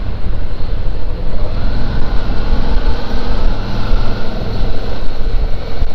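Suzuki V-Strom 650's V-twin engine running steadily while riding, heard through heavy wind rumble on the rider's helmet microphone.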